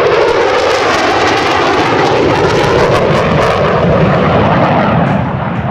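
Boeing F-15C Eagle flying past, its twin Pratt & Whitney F100-PW-220 turbofans giving a loud jet roar that crackles sharply for the first few seconds and shifts in pitch as it goes by. It fades somewhat near the end.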